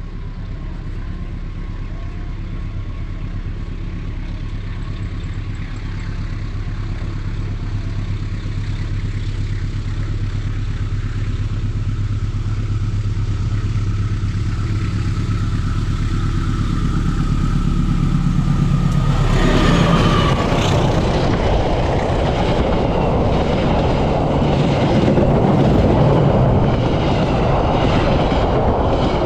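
Diesel-hauled local passenger train approaching along the line, its low engine drone growing steadily louder. About twenty seconds in it passes close by: a loud rush of wheels and coaches with rhythmic clicking over the rail joints.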